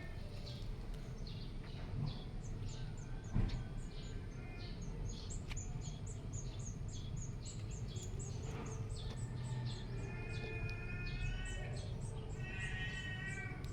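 Birds chirping: a run of short, high chirps repeating about three times a second, joined in the second half by longer calls of several tones, over a steady low background rumble.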